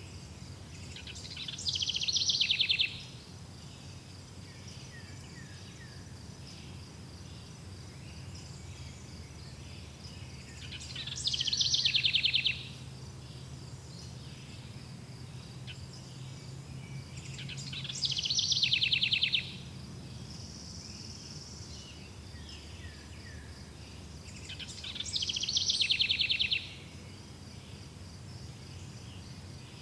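Forest ambience: a songbird sings the same short song four times, about seven seconds apart. Each song falls in pitch and ends in a fast trill. Under it runs a steady high-pitched insect drone.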